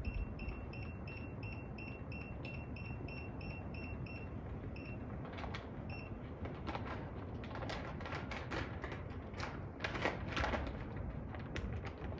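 A heater's control panel beeps rapidly, about three short beeps a second, as it is being set; the beeping stops about six seconds in. Irregular clicks and rustling from handling follow as the heat comes on.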